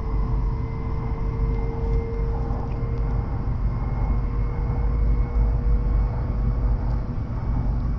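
Running noise of a W7 series Shinkansen car heard inside the passenger cabin: a steady low rumble, with a faint whine that fades out about three and a half seconds in.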